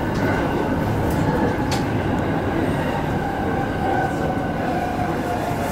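E217-series electric train running, heard from inside behind the driver's cab as it slows into a station: a steady rumble with a faint high whine.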